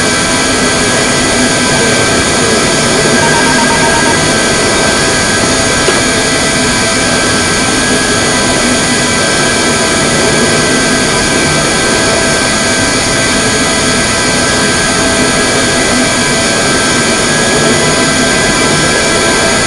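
Airbus A321neo's Pratt & Whitney geared turbofan engines running at takeoff power. The sound is a loud, steady jet noise with several steady whining tones held over it.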